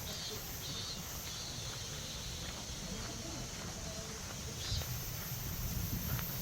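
Footsteps of a hiker walking on a mountain trail, a light step every half second or so, over a low rumble. High-pitched chirping pulses in the background in the first second, then carries on as a steady high hum.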